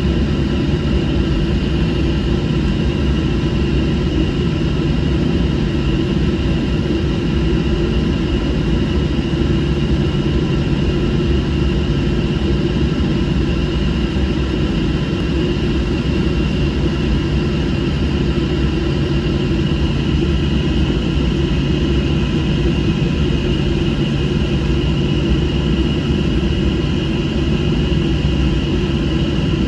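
Cabin noise inside a Southwest Boeing 737 airliner: the jet engines and airflow make a steady, even rush with a constant hum running through it.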